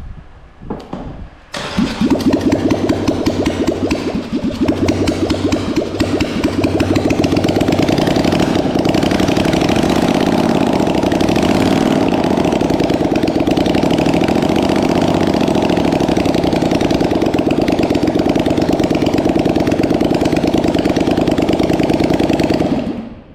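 Polaris Sportsman 850 ATV's 850cc twin-cylinder engine cranks and catches on starting fluid after sitting for years on old petrol. It runs unevenly for a few seconds, then settles into a steady fast idle, and stops near the end.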